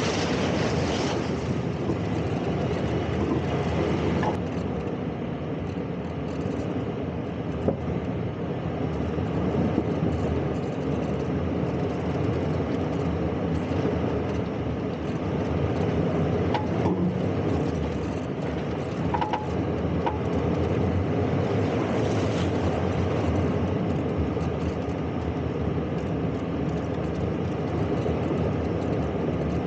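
Toyota 4Runner driving off-road: steady engine and tyre noise with a few brief knocks.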